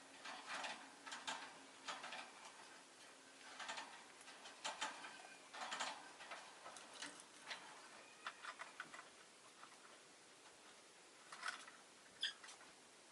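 Pet rosy-faced lovebird making soft, irregular clusters of dry clicks and ticks, with a brief high chirp near the end.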